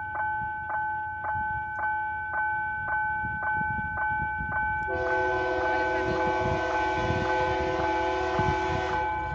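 Level-crossing warning bell ringing steadily, about two strokes a second. About five seconds in, a locomotive air horn joins with one long multi-note blast of about four seconds.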